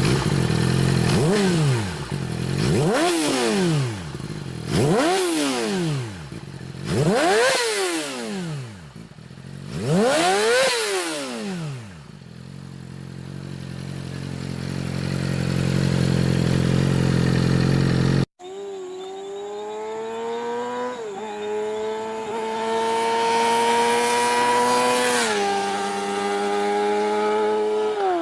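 Sport motorcycles passing at speed one after another, each engine note rising and then falling, about five in the first twelve seconds. After a sudden cut, a single motorcycle engine holds a high rev and drops in pitch twice as it shifts up through the gears.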